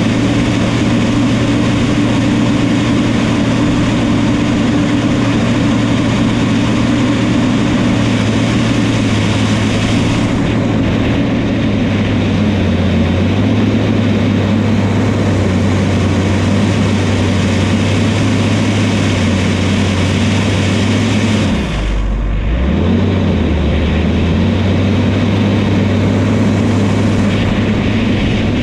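Diesel engine of a New Holland crawler bulldozer running steadily at working speed. About three-quarters of the way through, the engine speed drops sharply for a moment, then picks back up.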